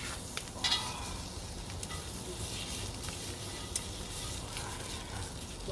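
Pork belly sizzling on a cast-iron cauldron lid (sotttukkeong) over a campfire: a steady frying hiss with a few sharp pops.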